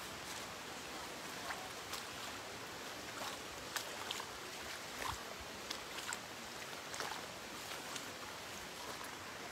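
Steady rain falling, an even hiss with irregular drops tapping sharply close by.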